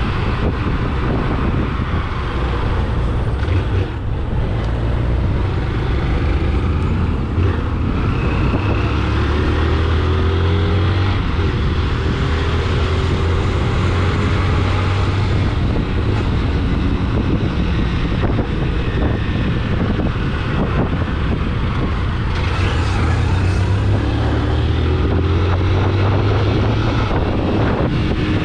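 Motor vehicle on the move: a steady low engine drone with road and wind noise.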